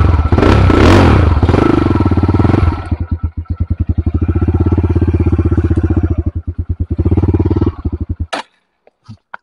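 Dirt bike engine running loud and revved for about three seconds, then settling to a lower, evenly pulsing speed before it breaks up and cuts out about eight seconds in, followed by a single sharp clack. The bike has been stalling on climbs, which the rider puts down to weak electrics.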